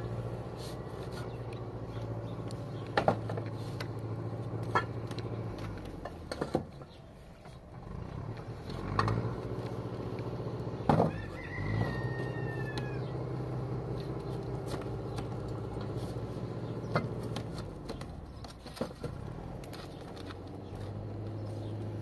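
A single drawn-out bird call about eleven seconds in, over a steady low hum that breaks off a few times, with scattered sharp knocks.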